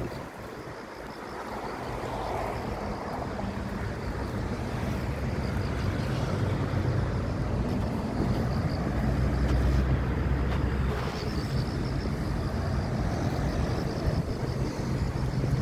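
A motor engine running steadily, its low hum building over the first couple of seconds, with wind noise on the microphone.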